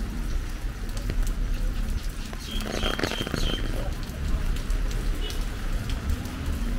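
Heavy rain falling steadily, with scattered drops pattering and a low rumble underneath. About two and a half seconds in, a brief high chirping sound rises over the rain for about a second.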